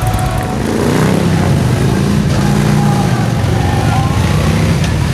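Motorcycle engine revving up, its pitch rising about a second in, then running steadily.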